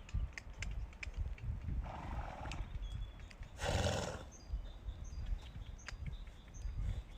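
A horse calling twice, the second call louder and about two seconds after the first, with scattered light clicks. Faint short high chirps are heard in the second half.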